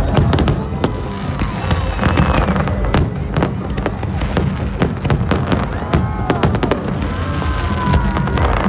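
Fireworks display: a rapid, irregular series of sharp bangs and crackles throughout, over a constant low rumble.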